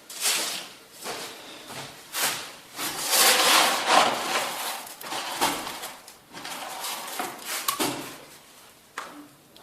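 Runny mortar being worked with a trowel in a container: irregular scraping and rubbing strokes, the loudest run about three to four seconds in.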